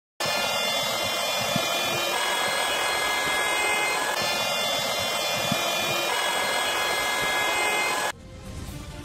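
Small battery-powered electric air pump running: a steady high motor whine over a rushing hiss, cutting off sharply about eight seconds in.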